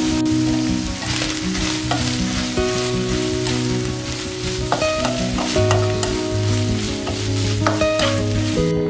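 Canned tuna and sliced onion sizzling as they fry in oil in a nonstick pan, stirred and scraped with a spatula, over soft background music. The sizzle cuts off suddenly near the end.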